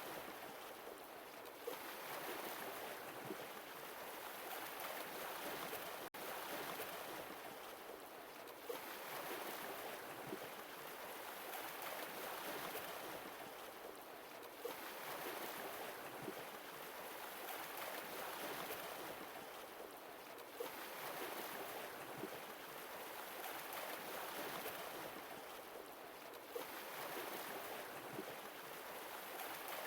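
Sea waves washing onto a shore, each swell rising and easing off about every six seconds.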